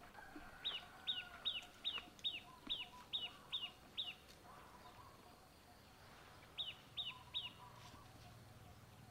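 A bird calling: a quick series of about nine short, high notes, each sliding down in pitch, at roughly two or three a second, then after a pause three more of the same notes.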